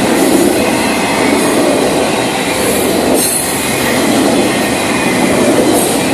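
Florida East Coast Railway freight train cars rolling past: a loud, steady noise of steel wheels running on the rails.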